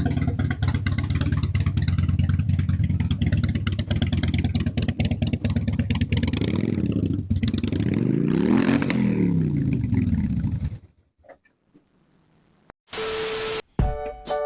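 A motor vehicle engine running loudly with a clattering rattle, its pitch sweeping up and down several times about two-thirds of the way through, then cutting off suddenly. A short burst of hiss with a steady tone follows near the end.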